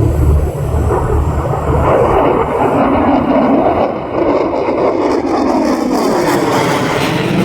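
F-35C Lightning II jet flying past, its single turbofan's noise building after about two seconds, with a sweeping, phasing whoosh as it passes.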